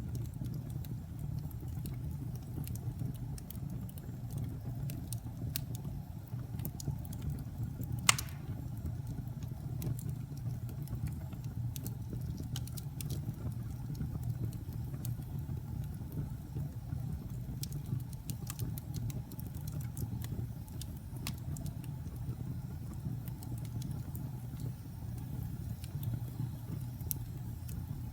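Wood fire burning with a steady low rumble and scattered crackles of burning wood, with one louder pop about eight seconds in.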